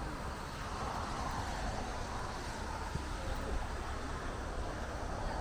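Steady outdoor background noise with a constant low rumble, typical of wind on the microphone.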